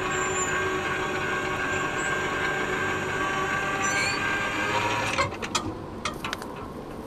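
Train noise from a VIA Rail passenger train that has just cleared a level crossing: a steady rumble with ringing steel tones, dropping off about five seconds in. A few sharp clicks follow.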